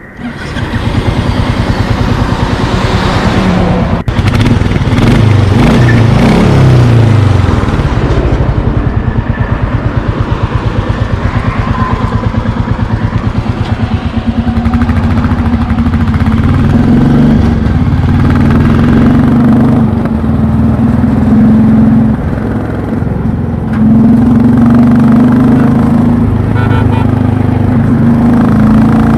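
Royal Enfield Classic 350's single-cylinder engine running with a steady exhaust thump, revved up and down in the first several seconds, then held at a steadier speed with a brief drop in revs a little over two-thirds of the way through.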